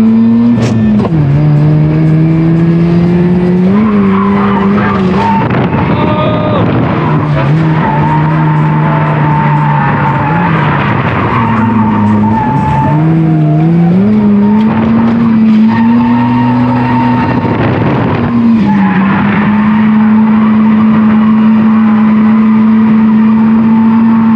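Mazda FC RX-7's naturally aspirated 13B rotary engine running high in the revs through a flat-out drift entry, its pitch dropping and climbing as the throttle is worked, with tires squealing and skidding. The revs fall a few times, then hold steady and high near the end.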